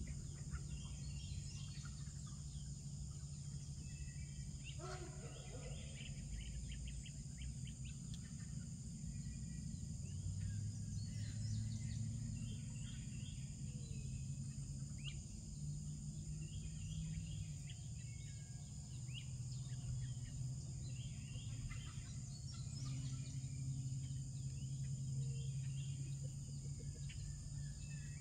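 Birds chirping and calling every few seconds over a low, steady hum and a high, even drone.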